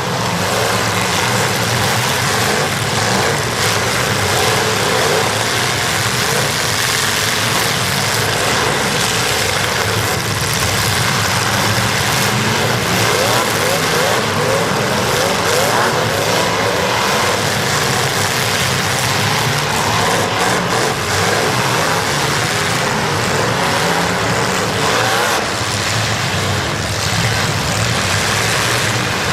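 Several demolition derby cars' engines running hard and revving at once, their pitches rising and falling over one another without letting up.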